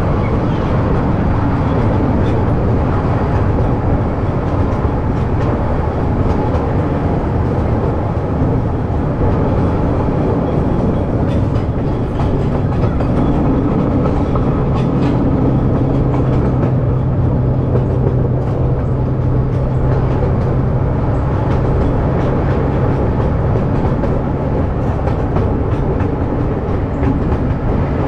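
Park train ride running steadily, heard from on board: a continuous rumble of the moving train with a low hum that swells for several seconds in the middle.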